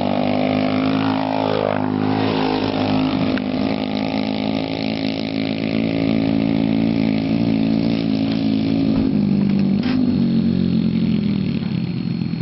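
Pit bike's small single-cylinder engine running. Its pitch swings up and down in the first two seconds, holds steady, then drops a little about nine seconds in.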